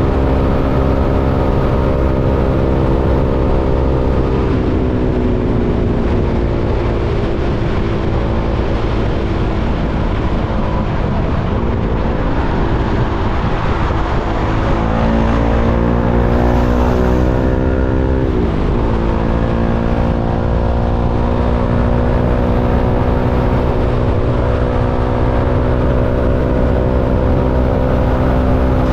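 KTM 390 Duke's single-cylinder four-stroke engine running under way. The revs drop about five seconds in, climb over several seconds in the middle, fall sharply a little past halfway, then rise slowly again.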